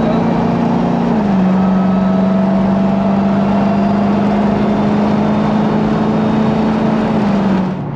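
Jeep Grand Cherokee Trackhawk's supercharged 6.2-litre V8 running steadily under way, its note stepping down in pitch about a second in and then holding steady. The sound cuts off abruptly near the end.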